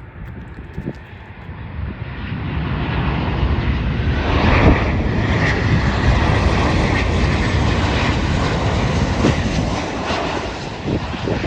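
A jet airliner passing close by: its engine noise swells about two seconds in, stays loud with a high whine through the middle, then begins to fade near the end.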